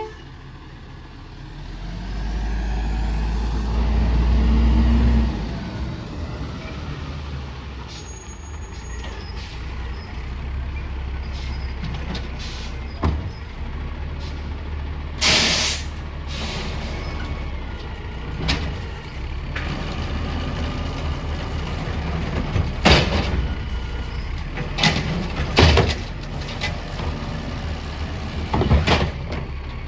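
Garbage truck's diesel engine revving up, then running steadily, with a short, loud air-brake hiss about halfway through. Several sharp bangs follow in the last third.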